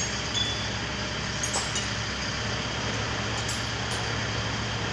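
Manlift truck's engine running steadily, a low even hum, with a few light metallic clinks about half a second and a second and a half in.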